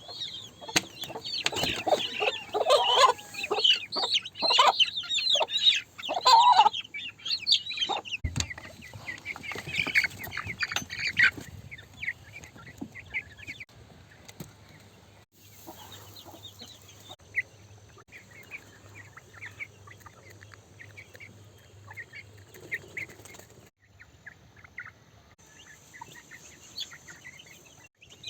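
Several chickens clucking and calling, many short calls overlapping and loud for the first ten seconds or so, then thinning out to fainter, scattered short calls.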